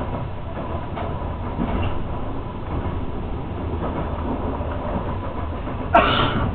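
A passenger train running along the track, heard from inside the carriage as a steady rumble. About six seconds in comes a sudden sharp click, followed by a short, louder rush of noise.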